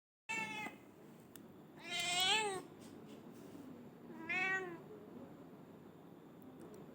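Domestic cat meowing three times: a short meow right at the start, a longer, louder one about two seconds in that rises and falls in pitch, and a third about four seconds in.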